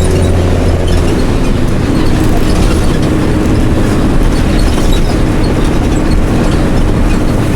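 Mercedes-Benz OM366LA turbo-diesel engine of a city bus running through an open, unsilenced exhaust. About a second in, the steady idle gives way to rougher running under load, with body rattles over it.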